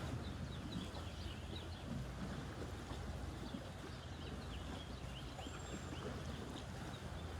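Outdoor ambience with many small birds chirping, short quick chirps several times a second, over a steady low background noise.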